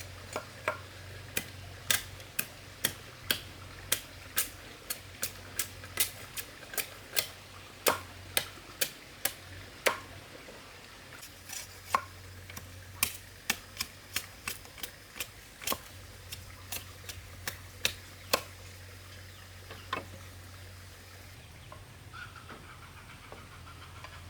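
A run of light, sharp knocks, about two a second, that thins out after about 18 seconds, over a low steady hum.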